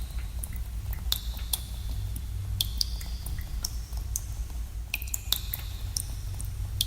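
Water dripping in a cave: drops fall at irregular intervals, each a sharp plink, many with a brief high ringing tone. A steady low rumble runs underneath.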